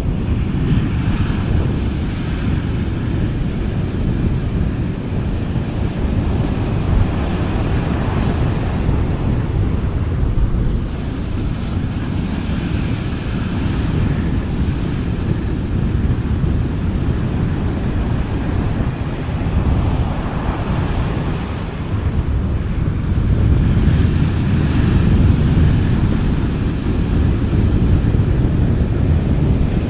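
Gentle sea waves breaking and washing onto a beach, the hiss of each wash swelling and fading every few seconds over a steady low rumble of surf. Wind buffets the microphone.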